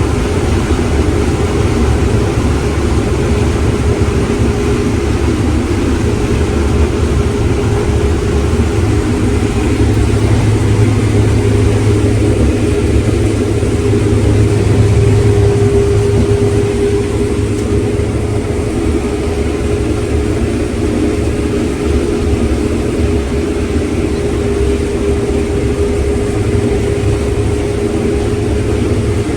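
Heavy farm machinery engine running steadily under harvest work: a deep, even drone with a steady higher hum that grows slightly louder around the middle.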